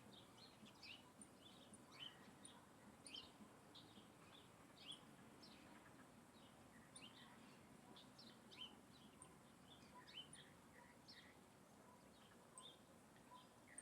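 Faint chatter of many small birds: short, quick high chirps overlapping continuously, several each second.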